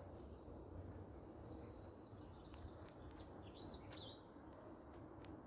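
Faint chirps and twitters of small songbirds, clustered in the middle, over a low steady background rumble.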